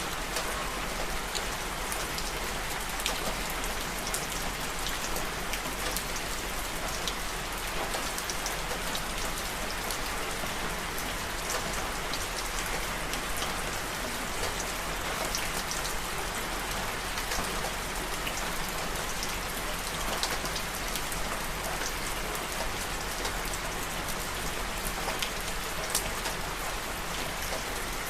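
Steady rain falling, a constant hiss with many small drops ticking on a hard surface.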